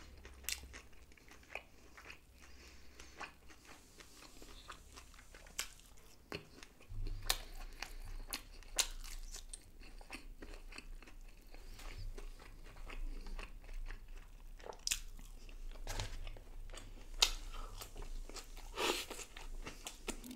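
Close-miked mouth sounds of a person eating fried fish by hand: quiet chewing and biting with scattered sharp clicks and smacks.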